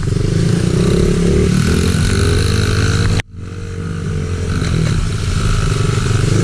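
Small pit bike engine running hard under the rider as it pulls along a trail, its pitch rising over the first second or two. The sound cuts out for an instant about three seconds in, then builds up again.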